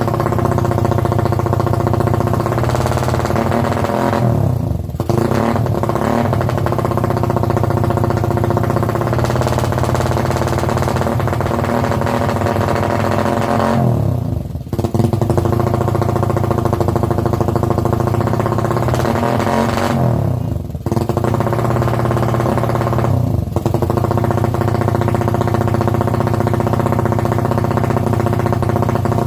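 Suzuki Raider motorcycle engine running steadily through an aftermarket KOU drag exhaust pipe, its note swinging briefly about four times as the revs change.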